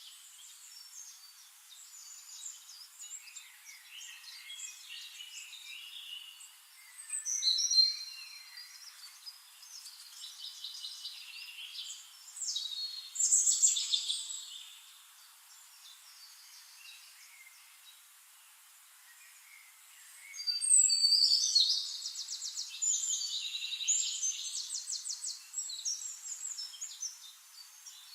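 Several tropical forest birds singing, with chirps and trills. There are two loud phrases in the first half, a quieter lull, and then a long run of rapid repeated notes in the last third.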